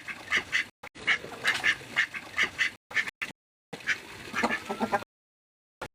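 Backyard poultry calling: a quick run of short, harsh, quack-like calls, about three a second, that breaks off about five seconds in.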